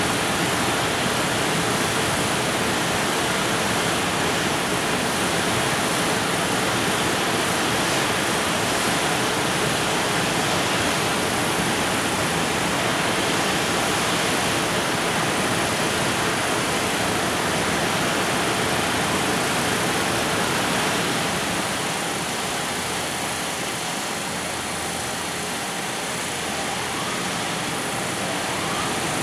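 Freight train's container wagons rolling past on the rails: a steady, even rumble and rush of wheels and cars, easing a little about three-quarters of the way through.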